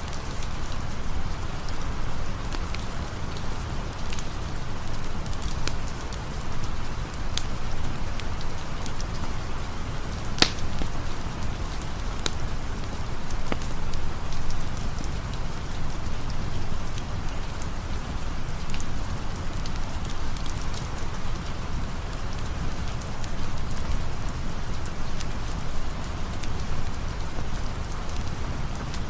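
Steady rain falling, with a campfire crackling in short sharp pops; one louder pop comes about ten seconds in.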